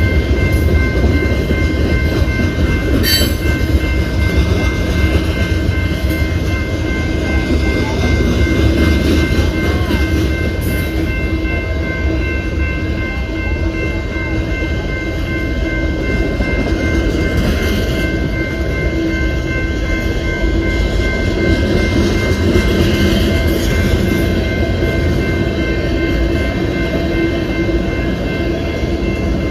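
Freight train rolling past: a steady heavy rumble of wheels on rail, with faint steady whining tones over it and a brief click about three seconds in.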